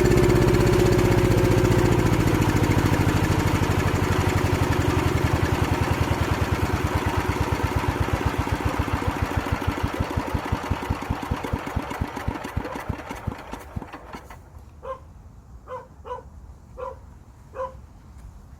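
The single-cylinder diesel engine of an old Daedong walk-behind tractor runs, then slows, its firing beats spreading further apart until it dies away about fourteen seconds in. Near the end a dog barks about five times.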